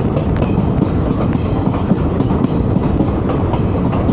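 Train moving along a station platform close by: a loud, steady rumble of wheels on rails.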